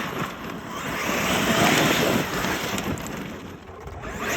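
Traxxas X-Maxx 8S electric RC monster truck running, a rush of tyres and brushless motor that swells to its loudest about two seconds in, then fades.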